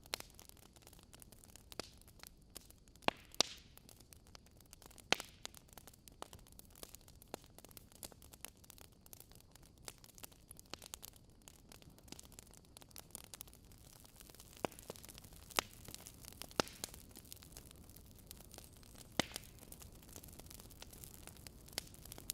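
Wood fire crackling in a fireplace: a soft steady hiss with scattered sharp pops and snaps at irregular moments.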